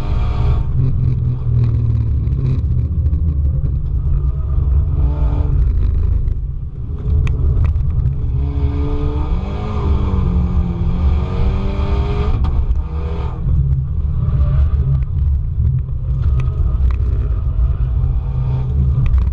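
Car driven hard on a race circuit, heard from onboard: a heavy low rumble of wind and road noise over the engine. Around the middle the engine note drops as the car slows, then climbs again under acceleration.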